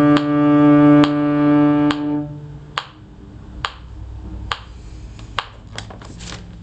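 Cello holding a long bowed final note that dies away about two seconds in, over a steady tick roughly every 0.85 seconds that carries on after the note ends.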